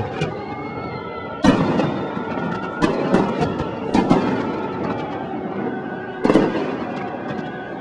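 Aerial fireworks bursting: a series of sharp booms, about six, with crackle and echo rolling on between them. The loudest bangs come about one and a half seconds in and again near the end.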